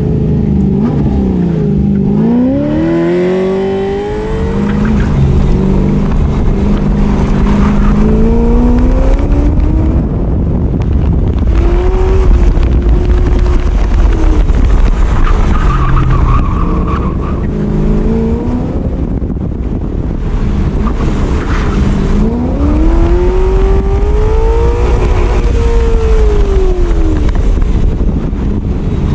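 A car engine and exhaust being driven hard through an autocross course, revving up and falling back several times between corners, with a brief tyre squeal about halfway through.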